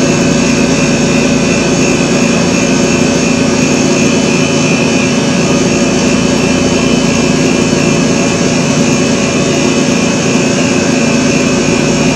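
Steady, loud droning noise with a constant hum and hiss, unchanging throughout, like a running fan or air-handling machine.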